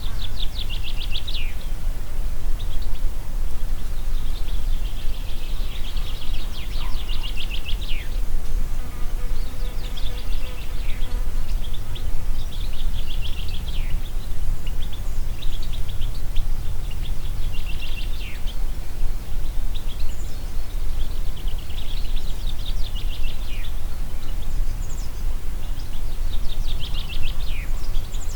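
Wind rumbling steadily over the microphone, while a songbird repeats a short, high, trilled song phrase that drops in pitch at its end, about seven times, a few seconds apart.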